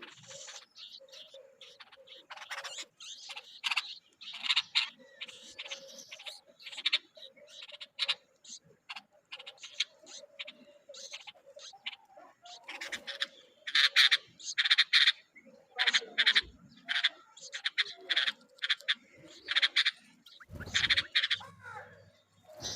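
Bulbuls calling in a long string of short, high chirps, louder in rapid clusters past the middle, over a faint steady hum. A low rumble comes near the end.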